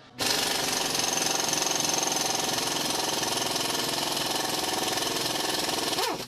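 Power tool run in one continuous burst, working to push a stuck bolt out of a sway bar end link. It starts abruptly, runs steadily for about six seconds, and winds down with a falling pitch near the end.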